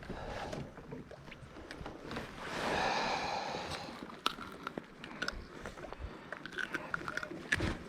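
Light clicks and knocks of fishing tackle being handled in a boat, with a short swell of rushing noise about two and a half seconds in.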